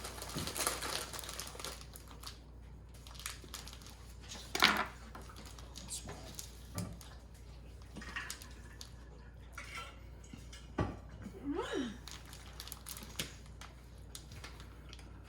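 Quiet, scattered handling sounds of snack packaging crinkling and light knocks and clicks as food is cut and passed around, with one sharper knock about five seconds in and a brief wavering vocal sound near the end.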